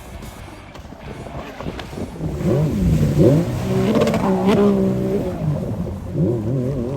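An engine revving hard, its pitch swooping up and down several times and growing louder about two seconds in, then revving again near the end.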